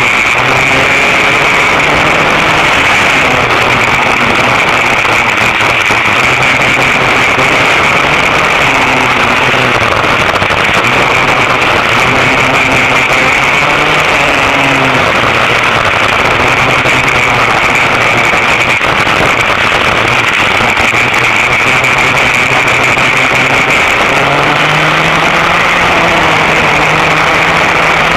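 Vintage dual rear-engine racing kart's engines running hard on track, their pitch rising and falling with the throttle and climbing near the end.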